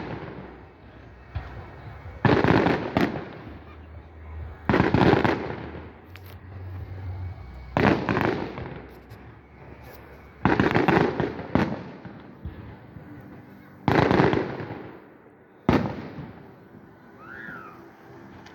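Fireworks going off: six loud bangs, one about every two to three seconds, each dying away quickly.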